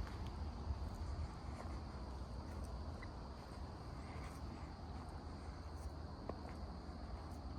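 Steady insect chorus, a constant high-pitched chirring, over a low rumble on the phone's microphone, with a few faint scattered clicks.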